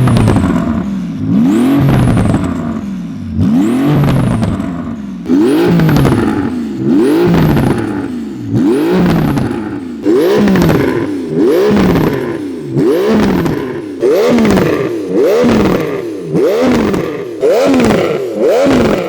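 Porsche 911 GT2 RS's 3.8-litre twin-turbo flat-six revved again and again, each rev rising sharply in pitch and falling back, about once a second and slightly quicker towards the end.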